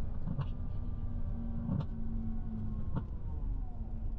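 Tour bus interior: steady engine and road rumble with a few short knocks, as the bus pulls slowly into a car park.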